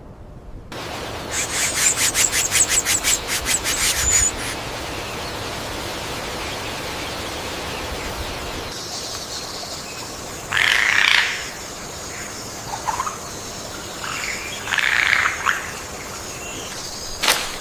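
Birds calling over a steady background hiss: a rapid run of chirps at about four a second in the first few seconds, then two louder calls about four seconds apart in the second half.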